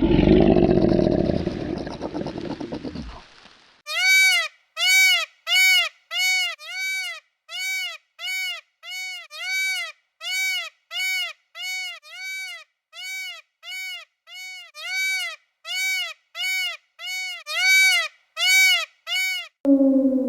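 Animal calls: a loud, rough, noisy sound lasting about three seconds and dying away, followed by about two dozen short pitched calls, evenly spaced at roughly one and a half a second, each rising and then falling in pitch.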